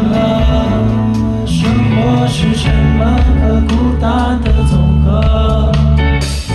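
Indie rock band playing live: a man sings over electric guitar, bass and drums, with the drums hitting at a steady beat.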